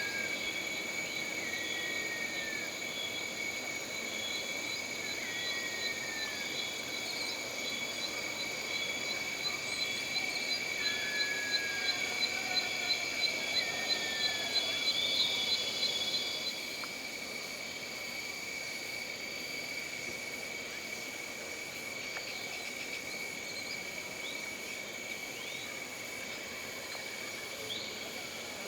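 Jungle ambience: insects droning steadily at several high pitches, with birds giving short falling whistles through the first half. A rapid pulsing call of about two to three beats a second builds louder, then stops about sixteen seconds in.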